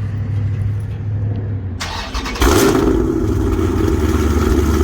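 Big-cam Hemi V8 running through a Borla ATAK exhaust with freshly welded, leak-free joints: a low hum that turns sharply louder about two seconds in, then holds at a loud, steady idle.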